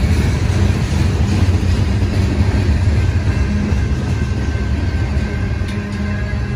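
BNSF manifest freight train's boxcars and covered hopper cars rolling past, a steady low rumble of steel wheels on the rails.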